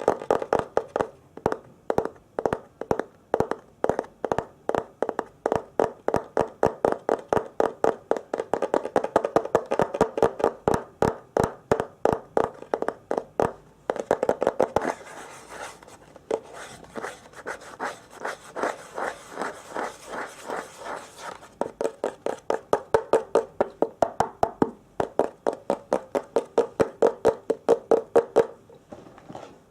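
Rapid ASMR tapping on an object, several quick taps a second. From about halfway through to about two-thirds of the way, a scratchy hiss joins the taps, and after that the tapping goes on alone.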